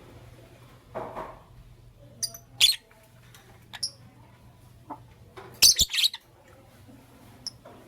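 Lovebirds chirping: short, sharp, high-pitched chirps in brief clusters, the loudest group about two-thirds of the way through, over a faint steady low hum.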